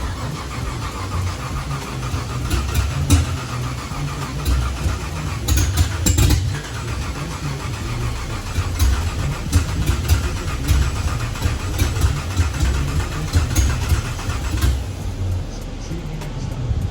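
Chevrolet Caprice PPV engine with a freshly installed aftermarket cam, running with an uneven, pulsing idle and a few brief louder surges.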